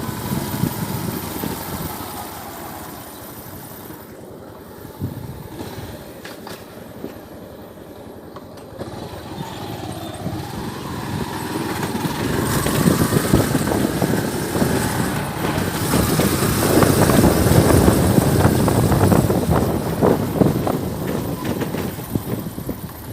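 Motor vehicle engines and road noise, quieter at first and growing louder through the second half.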